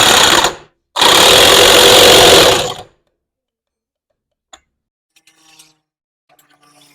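Power impact wrench run in two bursts, the second about two seconds long, hammering a nut on the Honda CD 70 engine tight after its missing washer has been refitted. A few faint clicks follow.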